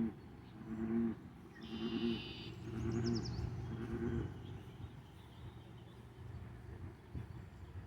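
A low animal call repeated five times, about once a second, with a brief high bird chirp among them.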